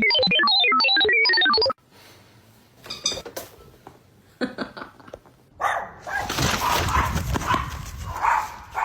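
A quick melodic jingle that cuts off suddenly, followed after a few quiet, scattered sounds by a dog's barks and whines over a noisy background in the last few seconds.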